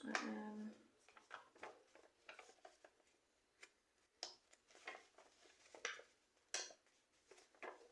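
Faint, scattered light rustles and small ticks of paper stickers being peeled from their sheet and placed on a tile.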